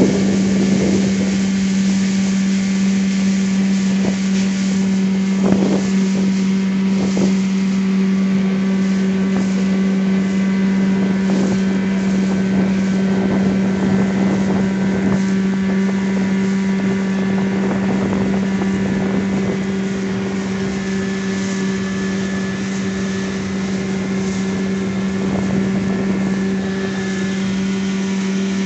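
Evinrude (Johnson) 9.9 hp outboard motor running at a steady speed under way, with an even, unchanging engine note. There are a couple of faint knocks about five and seven seconds in.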